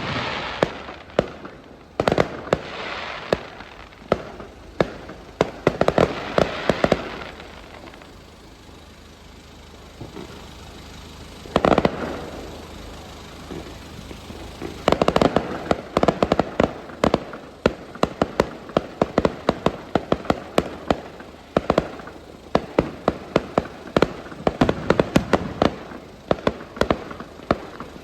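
Fireworks going off: repeated sharp bangs and bursts of crackling. A quieter lull comes about a third of the way through, then a single loud bang, then rapid dense crackling through the second half.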